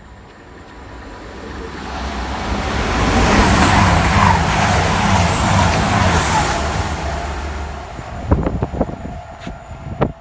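A train passing at speed: a rumble and rush that builds over about three seconds, stays loud with a regular repeating beat, then fades away. A few sharp knocks follow near the end.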